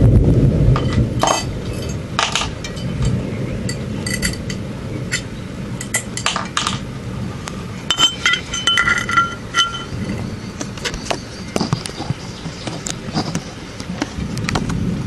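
Thunder rumbling out in the first second or so, followed by irregular sharp clinks and taps, some with a short ringing tone.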